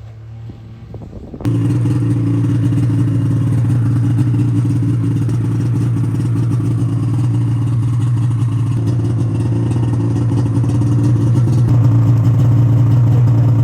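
A car engine running at a steady pitch, starting abruptly about a second and a half in and getting a little louder near the end.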